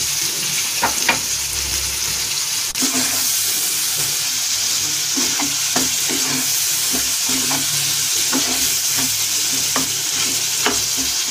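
Chopped onions and tomatoes sizzling in hot oil in a non-stick frying pan, stirred with a wooden spatula that knocks against the pan at irregular intervals.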